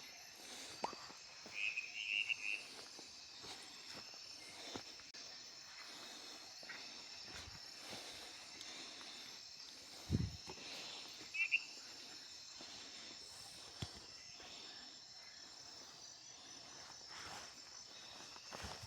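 Rainforest night chorus of crickets and other insects: a steady, high-pitched shrill trill. Short chirping calls break in twice, about 2 seconds in and past the middle, and there is a single dull knock about 10 seconds in.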